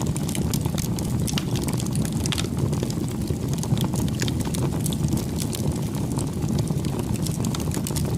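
Campfire burning: irregular sharp crackles and pops over a steady low rumble.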